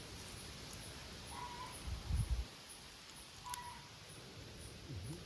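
Outdoor bird calls: a short flat note repeats about every two seconds, over a faint, high, even chirping about twice a second. A low thump comes about two seconds in and again near the end.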